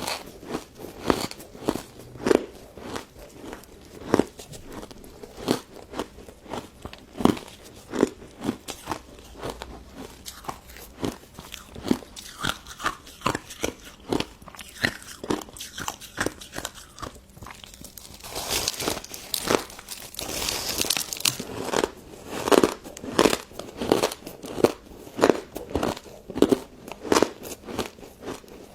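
Close-up crunching and chewing of pink crystal snow ice dessert, crisp icy bites repeating about one to two times a second. A brief hissy, crackling stretch comes about two-thirds of the way through.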